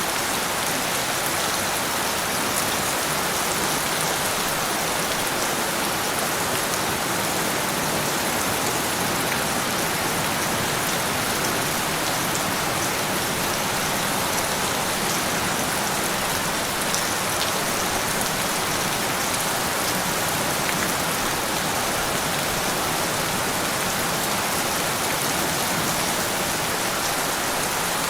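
Steady rain falling on a surface, an even hiss with many small drop ticks and no change in strength.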